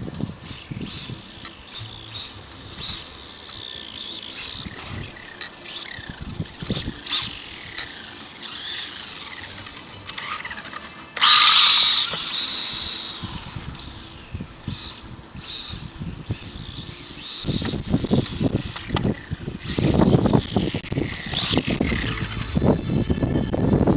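Losi 1:24 short-course truck's 10,000 kV brushless motor whining as it drives, the pitch rising and falling with speed, with tyre noise from the ground. A sudden loud rush comes a little after the middle, and rough crunching noise fills the last few seconds.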